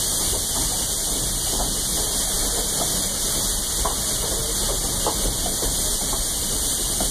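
Steady rumble and hiss inside a vintage steam-hauled passenger coach rolling along the track, with light clicks and rattles scattered through it.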